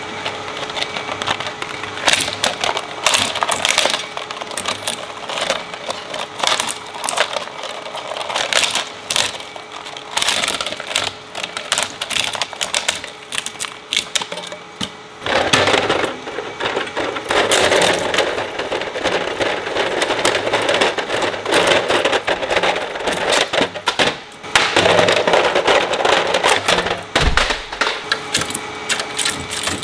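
Industrial shredder chewing up plastic: a dense, continuous run of cracking and snapping over a steady motor hum, growing heavier about halfway through.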